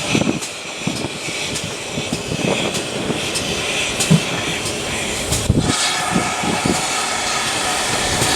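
Steam train running, with a steady rushing noise and a regular beat of sharp strokes about two to three a second.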